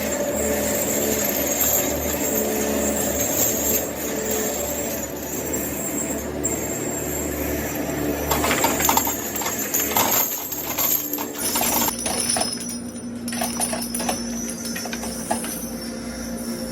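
A machine running steadily with a mechanical hum and whine, with a run of sharp knocks and clatter about halfway through.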